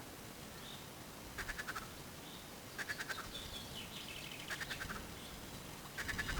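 Duck quacking: four short raspy calls about a second and a half apart.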